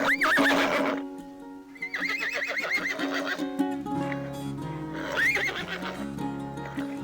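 An animal calling three times, each a high, quickly wavering cry, over background music.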